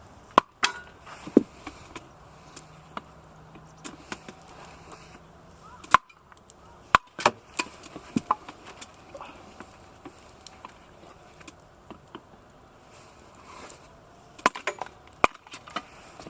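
Firewood being broken up by hand: scattered sharp wooden knocks and cracks, coming singly or in short clusters with pauses between, the loudest near the start, about six to seven seconds in, and near the end.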